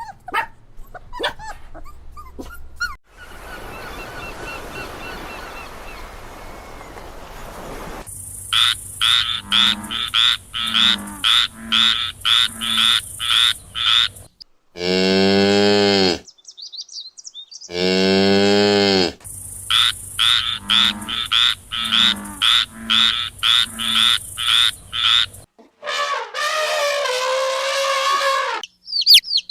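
A run of animal calls: rapid, repeated croaks like a frog's in two bursts, broken in the middle by two long cow moos, and another drawn-out animal call near the end.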